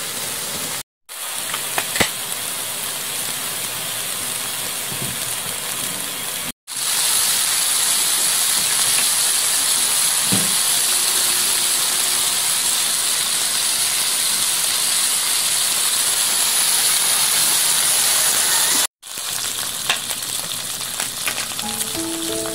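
Pork slices and then king oyster mushrooms sizzling and frying on a hot round griddle pan. The steady sizzle is broken by a few very short silent cuts and is louder through the middle stretch. Music comes in near the end.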